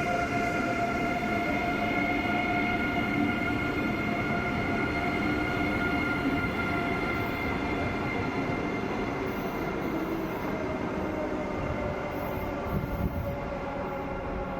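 Electric train moving through the station with a steady whine that slowly falls in pitch, over a constant rolling rumble.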